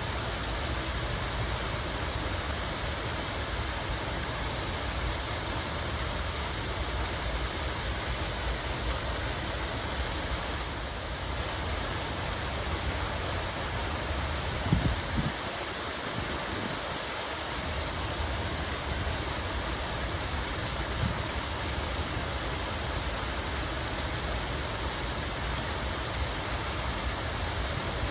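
Steady rush of falling, splashing water from a park fountain or small cascade, with a low rumble beneath it and a few brief low thumps about halfway through.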